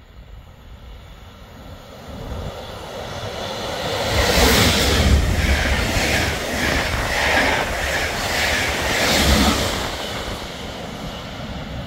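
Intercity Direct passenger train passing through the station at speed without stopping. The rail noise builds, stays loud for several seconds with a pulse about once a second as the cars go by, then fades away.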